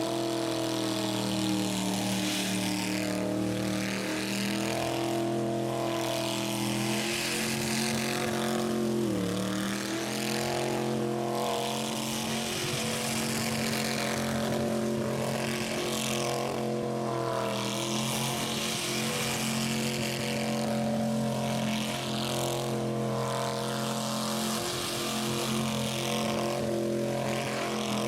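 Rat rod's engine held at high, steady revs during a burnout, over a constant rushing noise. The pitch sags briefly about nine seconds in, then climbs back and holds.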